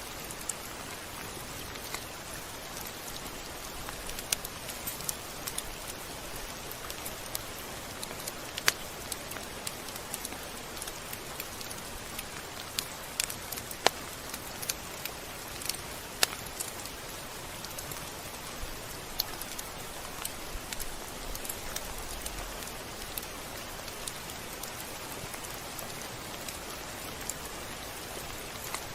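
Steady rain hiss with scattered sharp ticks of drops striking a surface, some ticks much louder than the rest.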